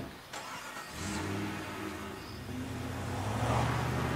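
A car engine comes in about a second in and runs, growing louder and rising a little in pitch as it accelerates away. A short sharp thump sounds at the very start.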